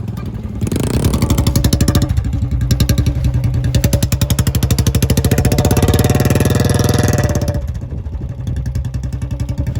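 Royal Enfield Bullet 350's single-cylinder engine revved up about a second in and held at high revs for several seconds, then dropping back toward idle near the end.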